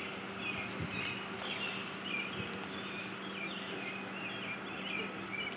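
Small birds chirping repeatedly, short calls one after another, over a steady low hum.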